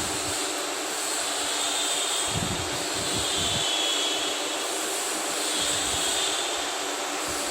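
15-ton CNC stretch bending machine running: a steady machine drone with a high whine from its drives that rises and fades about three times as the bending arms move. A few low knocks come near the middle.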